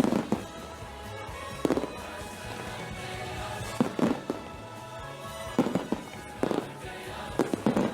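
Aerial fireworks shells bursting in quick clusters of sharp bangs every second or two, with music playing steadily underneath.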